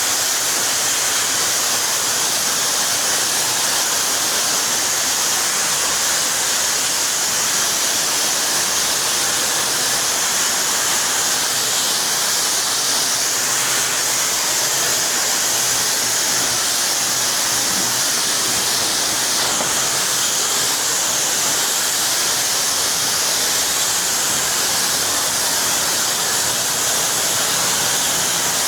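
Pressure-washer wand spraying water: a steady, unbroken hiss of the jet as glass and surfaces are rinsed.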